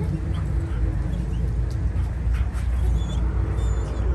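A dog whining in short, faint high glides over a steady low rumble. The whining is typical of a dog that wants to get out and play.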